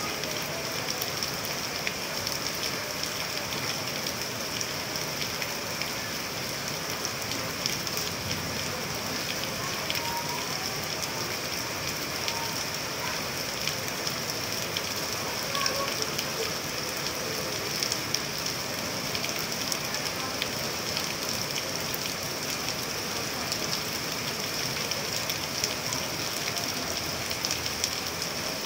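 Steady rain falling on wet paving stones and puddles: an even hiss with many small drop splashes.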